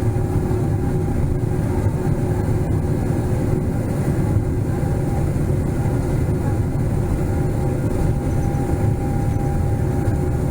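Steady cabin noise inside a Boeing 777-300ER: an even, deep rumble of engines and rushing air with a couple of faint steady hums over it.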